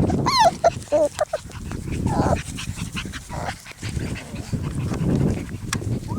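Young puppies playing, giving a few short high yips and whines, the first about half a second in, over a continuous low rough scuffling sound.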